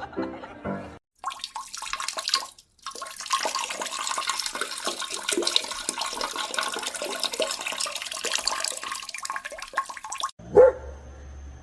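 Water rushing and splashing: a steady noisy wash with many small crackles, broken twice by brief dropouts in the first three seconds. Near the end it gives way to a low hum.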